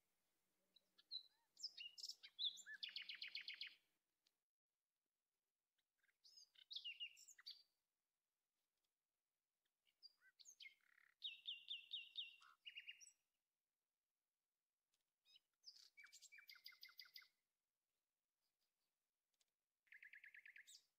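A songbird singing in five short phrases a few seconds apart, each a run of high chirps and a fast, even trill.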